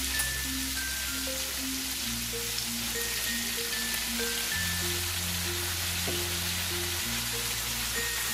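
Shrimp and vegetables sizzling steadily in a hot frying pan as soy sauce goes in, with light background music playing over it, a simple melody of held notes above a bass line.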